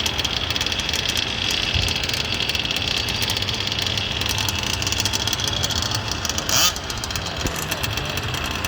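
Small two-stroke engines of gas-powered 1/5-scale RC cars running steadily, with a high, even buzz throughout. One short, loud burst comes about six and a half seconds in.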